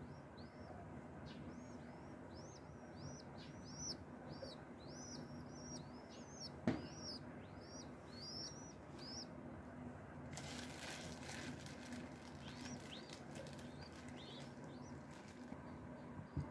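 Baby dove cheeping: a run of short, high-pitched calls, two to three a second, with a brief flutter of wings about ten seconds in and a single sharp click near the middle.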